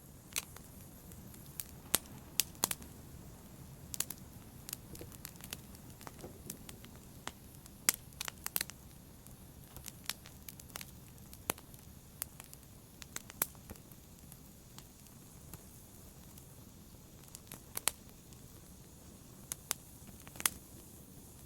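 Wood fire crackling in a fireplace: irregular sharp pops and snaps, a few of them much louder, over a steady low rumble of the burning fire.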